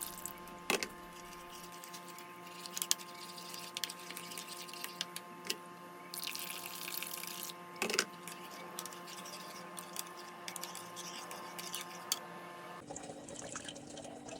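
Water running briefly from a tap, with scattered clicks and knocks of a bottle and utensils as puppy formula is mixed with warm water, over a steady background hum.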